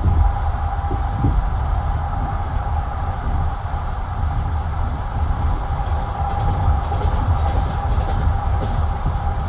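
Passenger train carriage running along the line: a steady low rumble of wheels on rails with a constant hum, and a few wheel knocks over rail joints in the first second or so.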